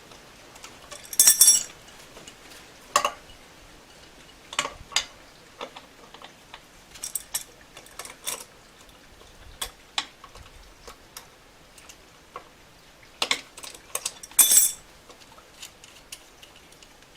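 Metal tools and small metal parts clinking and clattering while nuts are taken off an e-bike hub motor's axle: scattered light clicks, with a louder jingling clatter about a second in and another a little before the end.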